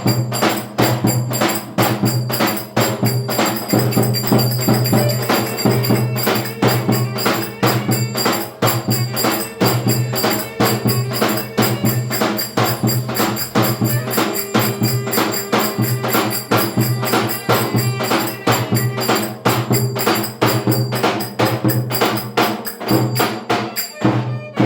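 Fast Turkish folk dance music (oyun havası) driven by dense, rapid hand percussion over a steady low drone. The music stops right at the end.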